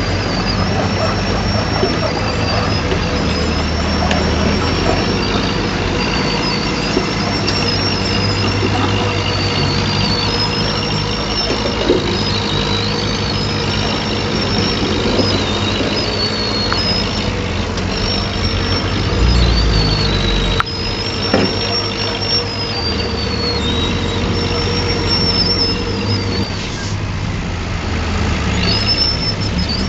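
Heavy earthmoving machine at work: a diesel engine running under varying load, with a high-pitched whine or squeal that wavers up and down the whole time and a few sharp clicks.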